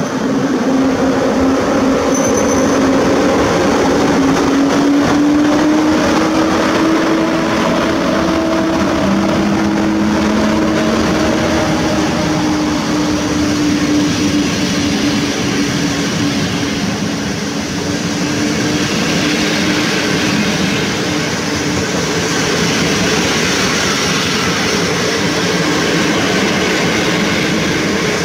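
PKP EP07 electric locomotive pulling away with a train of passenger coaches: a whine from the locomotive rises slightly in pitch over the first several seconds and then holds, under the continuous rumble of wheels on rails as the coaches roll past gathering speed.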